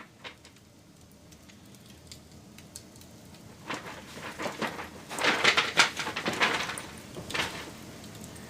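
Wood fire crackling: scattered sharp pops, then a burst of dense, loud crackling from about three and a half seconds in until near the end, before it settles back to a few pops over a soft hiss.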